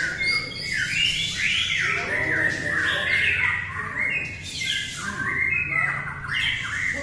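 Several white-rumped shamas singing at once in a contest, a dense, unbroken tangle of overlapping whistled and chattering phrases, over a faint low hum.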